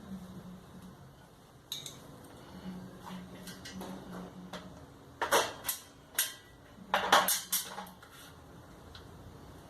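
Metal clinking and clattering, as of tools and small metal parts being handled: a few sharp knocks about five seconds in and another cluster about seven seconds in, over a faint low hum.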